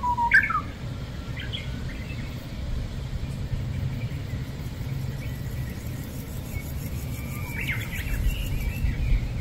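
Wild birds calling over a steady low rumble: a sharp upward-sweeping call right at the start, a few short chirps soon after, and a cluster of chirps near the end.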